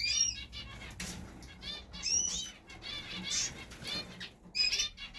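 Small cage birds, canaries and finches, calling with short high chirps every second or so, with wings fluttering among the calls.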